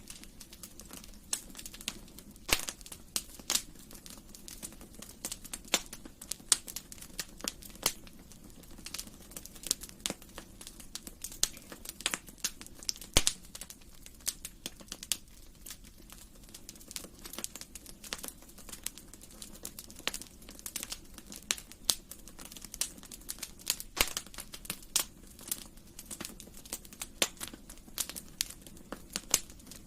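Wood fire in a fireplace crackling: irregular sharp pops and snaps, several a second, over a steady low hiss of burning.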